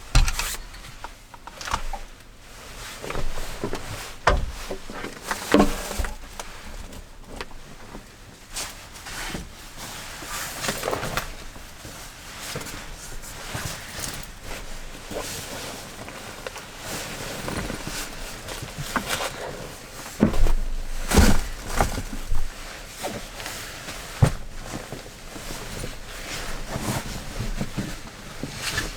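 Irregular knocks, clicks and rustling of things being handled, with a few heavier low thumps: about four and five and a half seconds in, and a cluster around twenty to twenty-one seconds.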